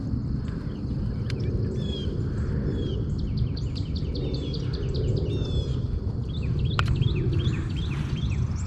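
Birds chirping, many short repeated calls over a steady low rumble, with two sharp clicks, one early on and one near the end.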